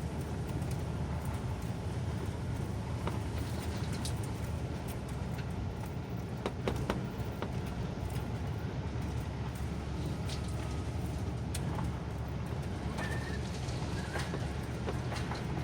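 Engine of an old Ford motorhome running steadily as it is driven slowly, a low drone with scattered light clicks and rattles.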